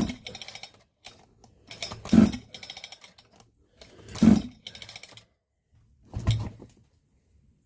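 Husqvarna 394XP two-stroke chainsaw pulled over on its recoil starter four times, about two seconds apart. Each pull is a short rasping whirr followed by a quick rattle. It is a compression test, and the gauge reads only about 110 to 115 psi, which the owner thinks low for how hard the saw is to crank.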